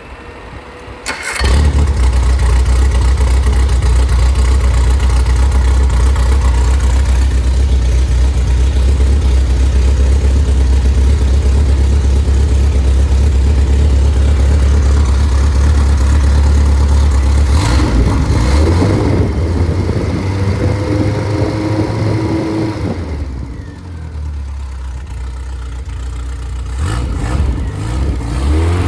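Freshly rebuilt Triumph Spitfire / MG Midget 1500 four-cylinder engine, started from cold. It fires about a second in and runs steadily. The engine speed shifts around eighteen seconds in, drops to a quieter, lower idle a few seconds later, and rises again near the end.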